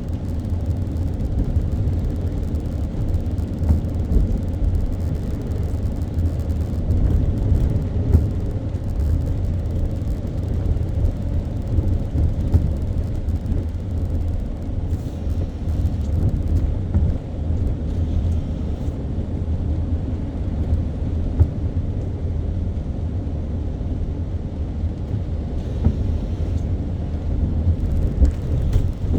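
Car driving on wet city roads: a steady low rumble of engine and tyre noise, with faint crackles.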